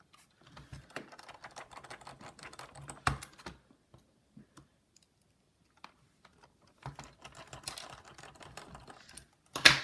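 Precision screwdriver driving a small screw into a laptop's plastic case to fix a speaker in place: two bouts of rapid, light clicking and scraping, with a sharper click near the end.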